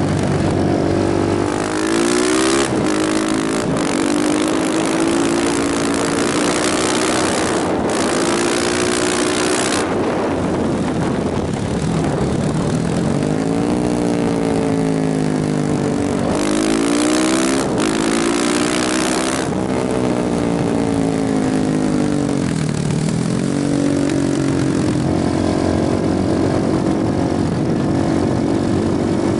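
KTM motorcycle engine under way, its revs climbing and dropping several times, with about four long stretches of loud rushing noise over it.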